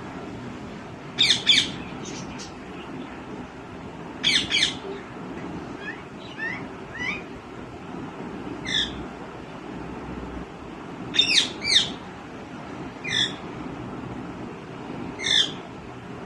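Green ringneck (rose-ringed) parakeet giving short, sharp, shrill calls. They come singly and in quick runs of two or three, about a dozen in all.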